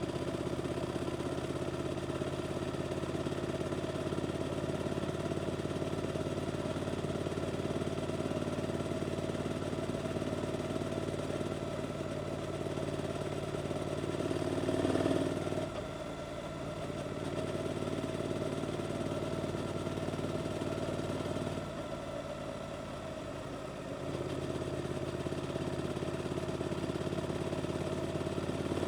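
Suzuki GSX-8S parallel-twin engine through an Arrows aftermarket exhaust under way, holding a steady note. About halfway through it swells briefly and then drops as the throttle closes, and later eases off for a couple of seconds before picking back up.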